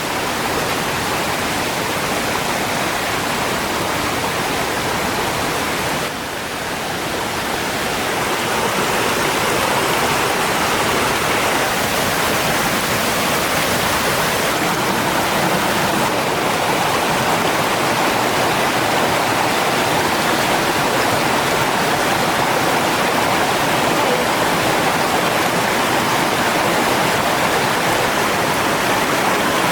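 Steady rush of flowing water. It dips briefly about six seconds in, then runs a little louder.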